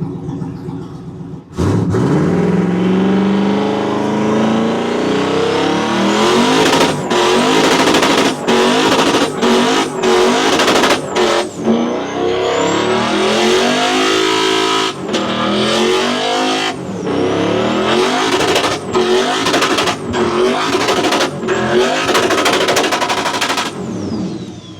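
Twin-turbo LS-swapped Lincoln Continental doing a burnout. The V8 is floored about a second and a half in, revs climb, and then it is held at high revs with tyres spinning, cutting out briefly again and again, before shutting off near the end.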